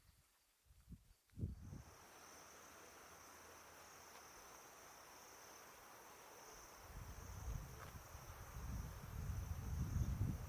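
Insects trilling in one steady high note that starts about two seconds in and holds without a break. From about seven seconds in, gusts of wind rumble on the microphone and become the loudest sound.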